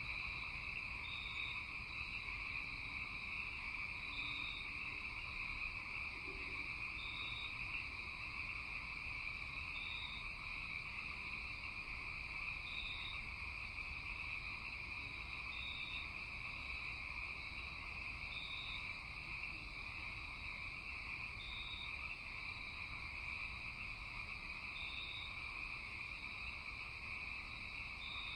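Night-time animal chorus: a steady high, dense trill, with a short call repeating about every three seconds over a low steady rumble.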